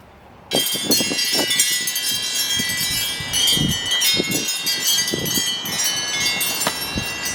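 Homemade wind chimes ringing loudly, many overlapping high tones, with scattered knocks as the chimes strike one another. The ringing starts abruptly about half a second in.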